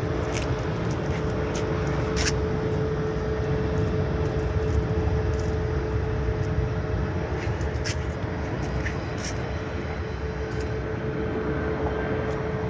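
Jet airliner's engines running steadily before takeoff thrust: a steady whine over a low rumble.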